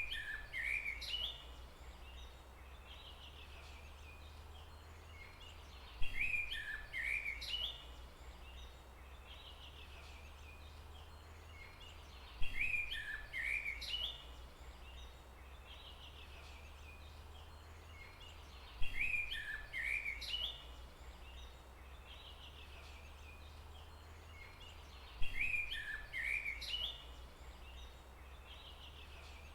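A songbird singing the same short phrase of quick chirping notes about every six seconds, five times over, over steady low background noise.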